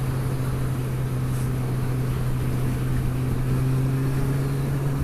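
Motorcycle engine running at a steady speed while riding, with wind and road noise; the engine note lifts slightly in the second half.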